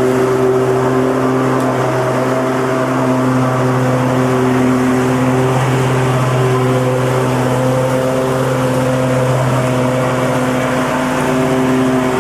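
Lawn mower engine running at a steady speed: a loud, constant hum.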